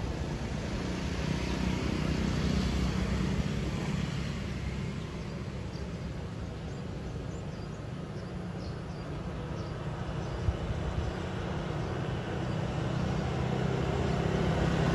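Low steady rumble of a heavy vehicle's engine, louder about two seconds in and building again near the end, with faint high chirps in the middle.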